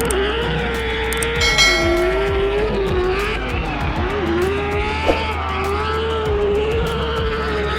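Drift car sliding under power: a high engine note wavering up and down with tyre squeal.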